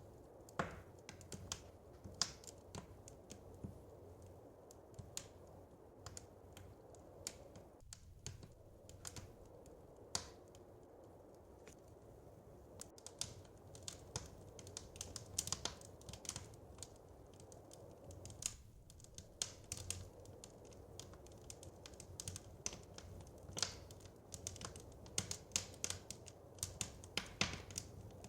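Wood fire crackling in a fireplace: irregular sharp pops and snaps, more frequent toward the end, over a soft low rumble.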